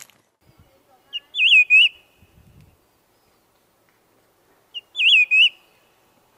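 White-whiskered laughingthrush singing: two loud, identical whistled phrases a few seconds apart, each a short note followed by three quick rising-and-falling notes.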